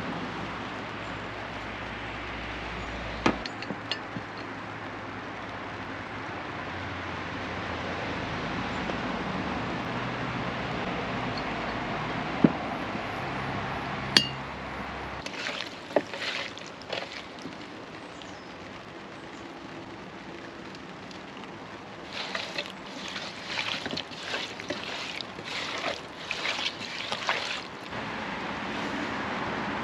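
A few sharp clinks and knocks over a steady background hiss, then a run of quick rustling and clattering handling noises lasting several seconds near the end.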